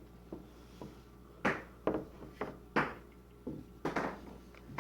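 Handling noise: a string of small knocks and rustles, with louder rustles about one and a half, three and four seconds in.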